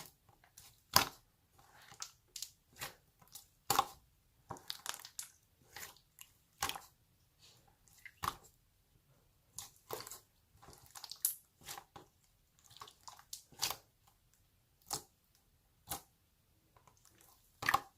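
Clear slime being pressed and squished by hand, giving irregular short wet clicks and pops, some in quick clusters, with quiet gaps between.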